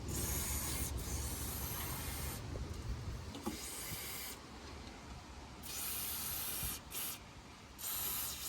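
Aerosol belt conditioner hissing from a spray can onto the engine's squeaky drive belts: one long spray of about two and a half seconds, then two shorter sprays near the end.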